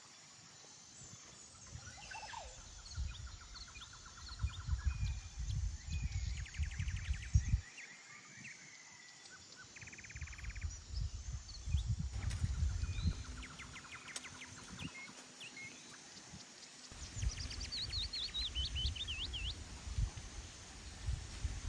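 Wind gusting against the microphone, a low rumble that rises and falls every few seconds, with small birds calling over it: chirps, short rapid trills, and near the end a wavering whistled call.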